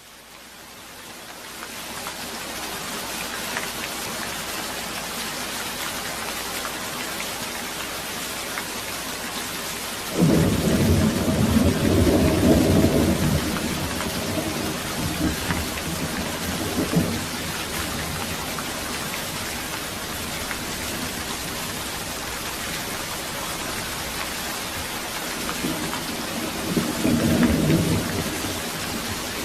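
Thunderstorm: steady rain hissing, fading up at the start. A loud rolling rumble of thunder breaks in suddenly about ten seconds in and dies away over several seconds, and a weaker rumble comes near the end.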